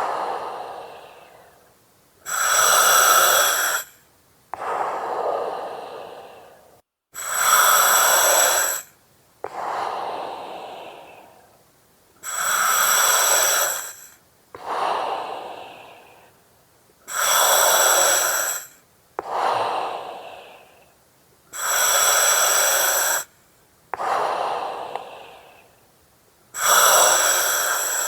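Slow, regular breathing through an oxygen mask, about six breaths. Each breath is a loud hissing rush of about a second and a half that starts and stops abruptly, followed by a softer breath that fades away.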